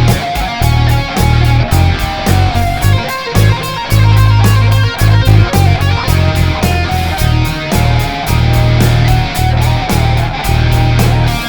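Live rock band playing an instrumental passage between sung lines: guitar to the fore over heavy bass and a steady beat.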